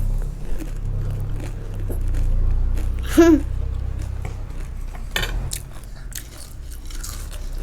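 Crunchy snack food being bitten and chewed close to the microphone: scattered short crunches over a steady low hum. There is a brief voiced sound about three seconds in.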